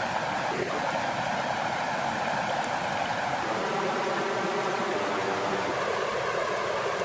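Lake water flowing in a steady, even rush with no change in level.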